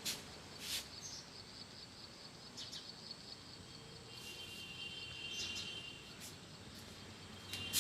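Quiet background ambience with faint, thin high-pitched chirps and a few soft clicks.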